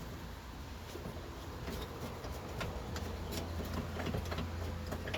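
Scattered light clicks and scrapes of small metal parts on the steering column being worked loose by hand, over a steady low hum.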